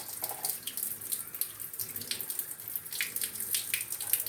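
Tap water running into a sink and splashing as a freshly scrubbed vessel is rinsed, with irregular splashes and light knocks.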